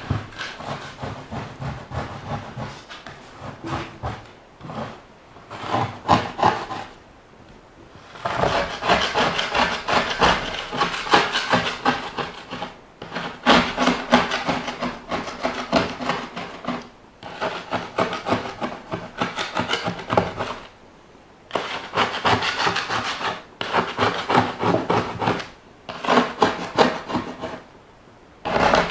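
OO gauge model train running on the layout's track, its wheels clattering steadily on the rails over a wooden baseboard. The clatter grows loud and fades again several times with short lulls between, as the train comes around the layout.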